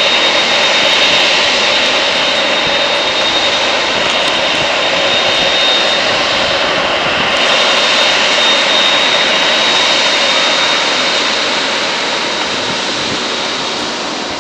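Jet airliner's engines running loud and steady, a rushing noise with a thin high whine over it, fading a little toward the end.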